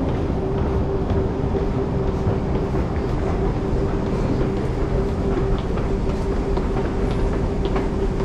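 Train noise: a steady low rumble with a constant hum and a few faint clicks.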